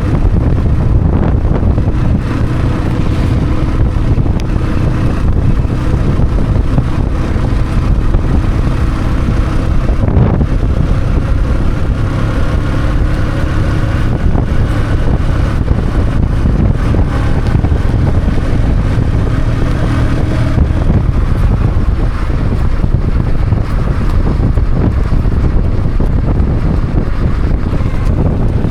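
Heavy wind buffeting the microphone, with the hum of a moving vehicle's engine underneath.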